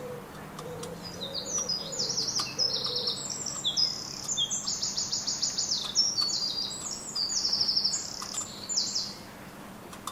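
A songbird singing one long, loud, high-pitched song of rapid trills that shift in pitch from phrase to phrase, lasting about eight seconds. Low, soft cooing is heard under it in the first couple of seconds.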